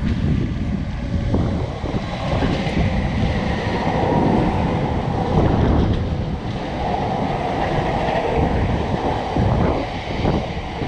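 Class 455 electric multiple unit running past close below, its wheels rumbling on the rails, with wind buffeting the microphone.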